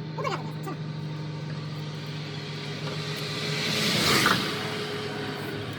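A vehicle passing on the highway: its road and engine noise swells to a peak about four seconds in, then fades. Under it runs a steady low hum.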